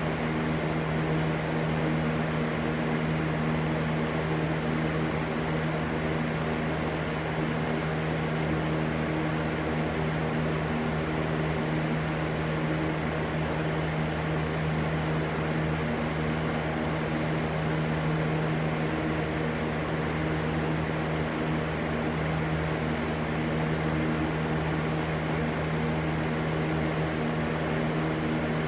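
Continuous white-noise ambience: an even rushing hiss with a steady low hum under it, unchanging throughout.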